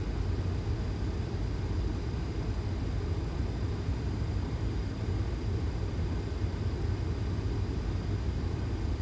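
Steady low rumble on a Boeing 737 flight deck during the landing rollout under manual braking, from the engines and the wheels on the runway, with a faint steady high tone throughout.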